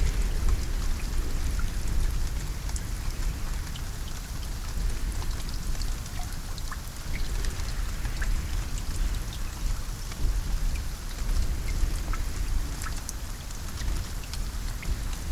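Steady rain falling, with individual drops striking a surface as sharp ticks over a low, continuous rumble.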